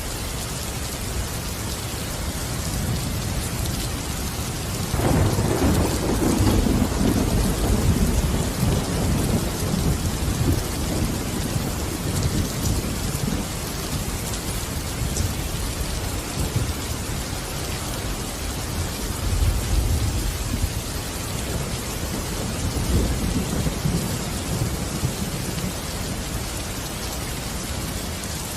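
Steady heavy rain, with a roll of thunder breaking in about five seconds in and rumbling on for several seconds before fading, and two fainter rumbles later.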